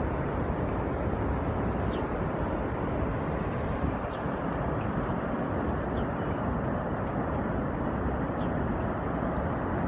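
Steady roar of the falling water at Niagara Falls, an even rushing noise that holds at the same level throughout.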